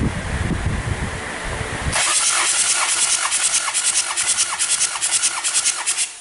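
Hyundai D4BH 2.5-litre four-cylinder diesel being cranked over by its starter motor for a compression test. The starter whine dips in rhythm at about four pulses a second as each cylinder comes up on compression, then cuts off suddenly. Before that, wind buffets the microphone.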